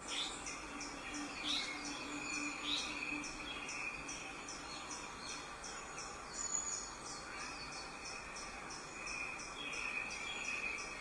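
A few short rising bird chirps over steady insect chirping that pulses about three times a second.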